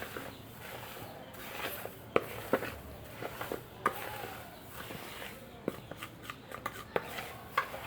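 Scattered, irregular light clicks and rustling from dry goat concentrate feed, with a few sharper clicks about two seconds in and near the end.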